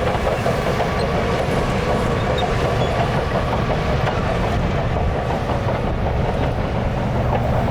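Crawler bulldozer working, its diesel engine running steadily under the clatter of its steel tracks.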